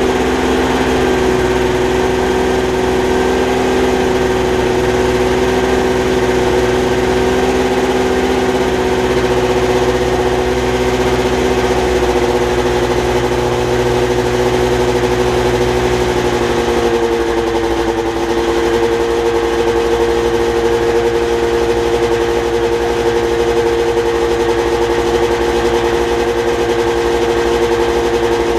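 1980 Ski-Doo Blizzard 7500 snowmobile's two-stroke engine running steadily as it warms up after a cold start in 5-degree cold. Its note shifts slightly about two-thirds of the way through.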